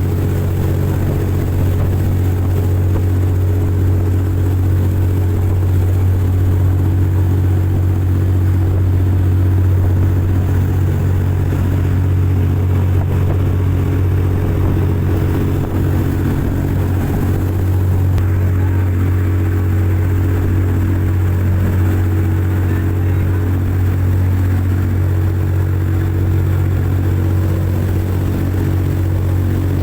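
A boat's engine running steadily at high speed, a constant low hum with several steady tones over a rushing noise.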